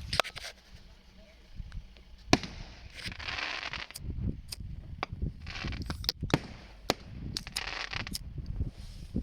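Fireworks display: scattered sharp bangs of aerial shells, about ten in all, with stretches of crackling hiss as effects burst and fizz.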